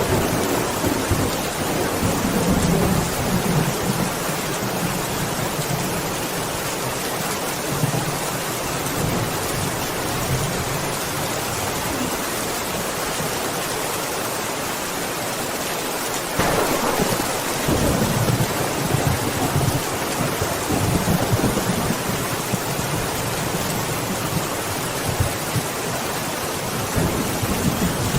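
Steady heavy rain with thunder rolling in the background, a long low rumble building up about halfway through and fading out, and another starting near the end.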